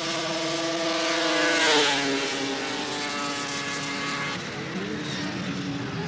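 Racing snowmobile's two-stroke engine at high revs on a grass drag strip. It grows louder and then drops in pitch as it passes, about a second and a half in, then carries on more faintly down the track.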